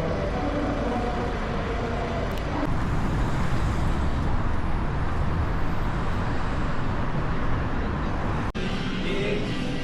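Steady rumble of traffic or a moving vehicle, somewhat louder about three seconds in, broken by a very brief dropout near the end.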